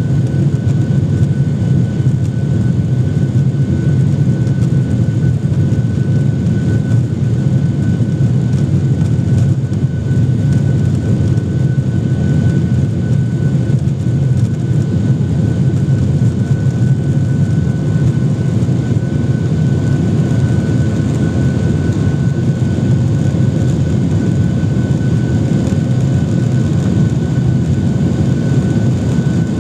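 Cabin noise inside a Boeing 737-800: its CFM56-7B jet engines run at a steady setting, a low even rumble with a thin steady whine above it. There is no spool-up or change in level throughout.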